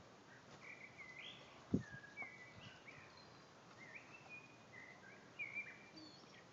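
Faint bird calls: a run of short, high chirps and whistled notes, some sliding up or down. A single low thump comes a little under two seconds in.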